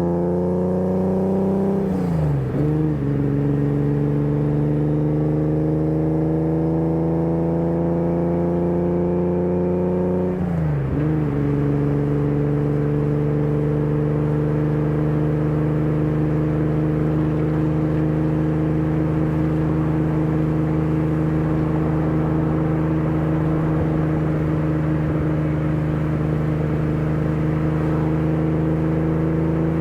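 BMW E30 323i's 2.3-litre straight-six engine pulling under acceleration, the pitch rising and then dropping at two gear changes, about 2 and 10 seconds in. After the second change it settles into a steady, slowly climbing drone at cruising revs.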